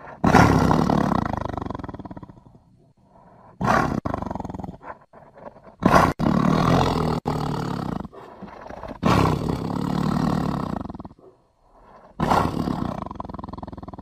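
Tiger roaring five times in a row; each roar lasts about two seconds and they come about a second apart.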